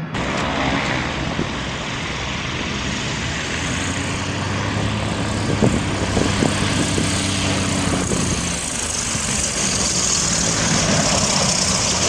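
Aircraft engine running steadily, with a broad rushing noise that grows slowly louder and a few brief clicks just past the middle.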